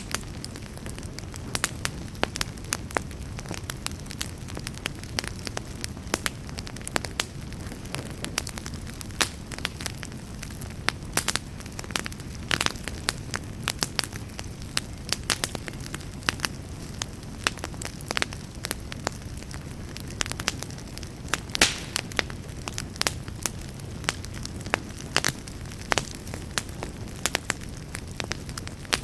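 Wood campfire crackling: irregular sharp pops and snaps from the burning logs, a few louder ones, over a steady low rumble.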